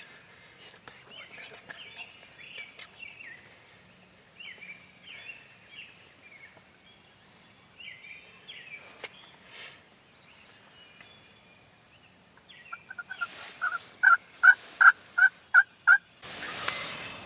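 Wild turkey calling: after faint scattered bird chirps, a run of about nine loud, evenly spaced call notes comes in over roughly three seconds near the end. A short burst of rustling noise follows.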